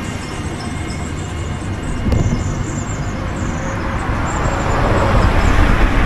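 Wind buffeting the microphone of a moving bicycle, a steady low rumble with road noise that grows louder near the end. Faint high chirps sound above it.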